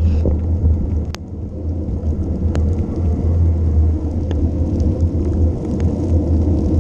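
Steady low rumble of a bicycle descending, wind and tyre noise on the onboard microphone, with a few sharp clicks from the bike.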